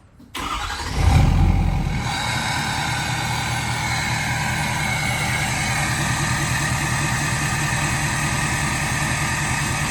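Ford 6.7 Power Stroke turbo-diesel V8 in a 2017 F-250 starting: the starter cranks briefly, the engine catches about a second in with a loud burst, then settles into a steady idle. The exhaust still has its resonator and a 4-inch race pipe in place of the removed DPF.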